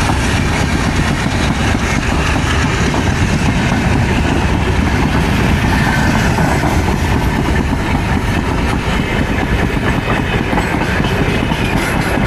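Passenger express train passing close by through a station: a loud, steady rumble of its coaches' wheels running over the rails, with dense rapid clicking.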